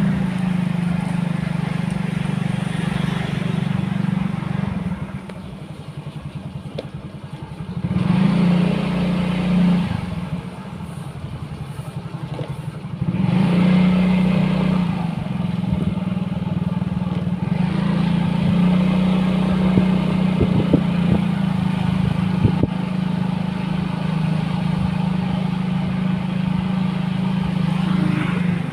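Vehicle engine running steadily while being driven. It eases off twice, about a third of the way in and again shortly after, then picks back up and runs on evenly.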